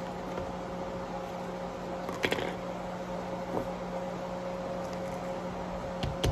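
Steady room hum, with a short burst of crackling clicks about two seconds in and two sharp clicks near the end, from small plastic toy packaging being handled and opened.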